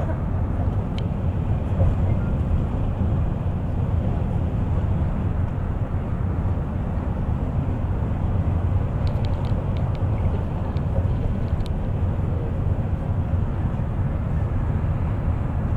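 Steady low rumble of a moving bus's engine and tyres heard from inside the cabin, with a few light clicks or rattles near the middle.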